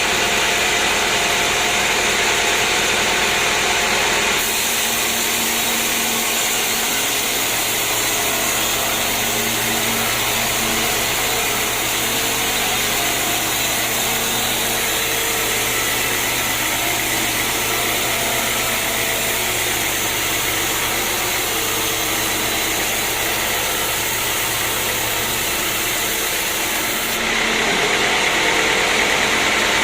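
Sawmill machinery running with a steady mechanical noise and a low hum. The sound changes about four seconds in and shifts back near the end.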